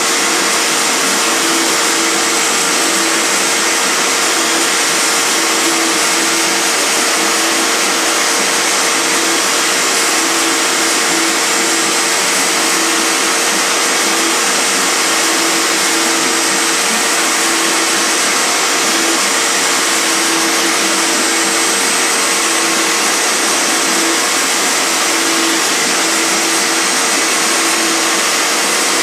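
CNC router carving a 3D relief: the spindle router runs at high speed with a steady whine and hiss, while a lower hum from the stepper motors starts and stops over and over as the axes move.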